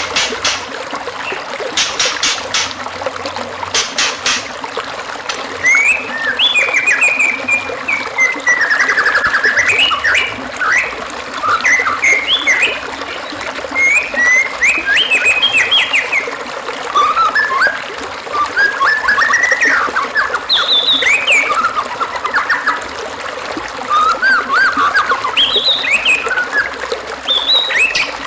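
White-rumped shama (murai batu) singing over a steady bed of trickling water. A few sharp clicks come first, then from a few seconds in, quick varied whistled phrases in bouts with short pauses.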